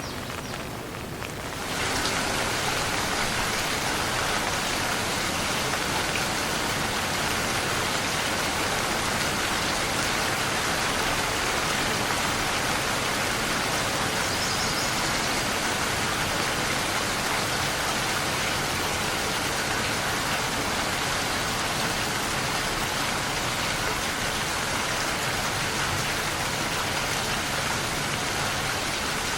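Steady rain falling, a dense even hiss of drops that gets noticeably louder about two seconds in and then holds steady.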